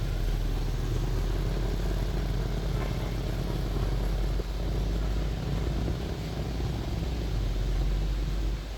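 Steady low rumble of a double-decker tour bus's engine, heard from on board as it drives through city traffic.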